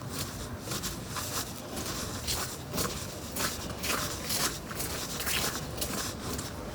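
Footsteps at a steady walking pace, about two steps a second, each a short crunchy scrunch.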